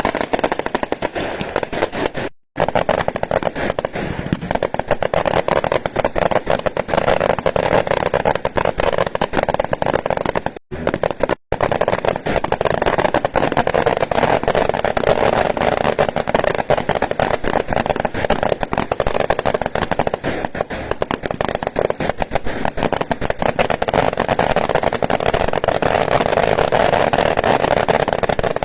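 Fireworks and firecrackers going off in a dense, continuous rapid crackle of pops and bangs, with the sound cutting out completely for a moment twice.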